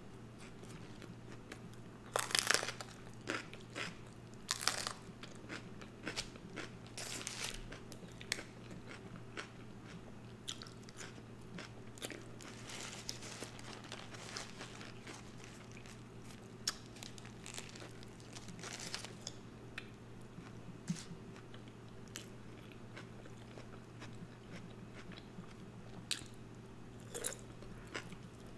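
Close-miked eating of an In-N-Out cheeseburger: irregular crunchy bites and wet chewing, with a few louder crunches spread through, over a steady low hum.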